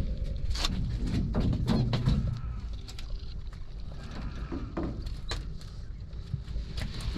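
Wind rumbling on the microphone, with irregular knocks and clatter from gear being handled in a small fishing boat, busiest in the first few seconds.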